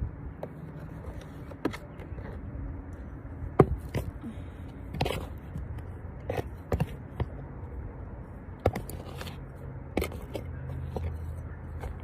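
Irregular light knocks, taps and scrapes of hands working pots and potting soil, over a steady low hum. The sharpest knock comes about three and a half seconds in.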